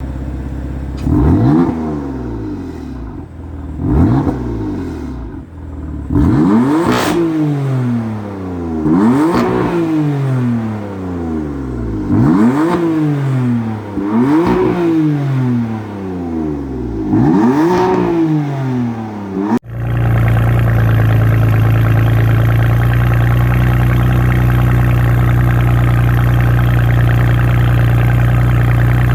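BMW M4 F82's twin-turbo inline-six revved through its exhaust in about seven separate blips, each pitch rising and falling back. After an abrupt cut, about two-thirds of the way in, it gives way to a loud, steady engine drone held at one pitch.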